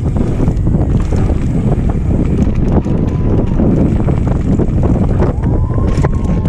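Wind buffeting the microphone of a camera on a moving mountain bike, a loud, steady rush. A couple of faint, brief whistling tones sound about halfway through and again near the end.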